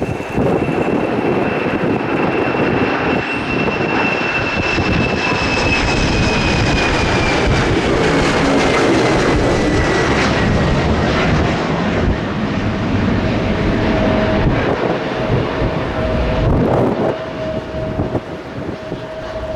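Jet airliner passing close by with its engines running loud. A high engine whine falls in pitch about halfway through as the plane goes past, and a steadier lower tone remains as the noise fades near the end.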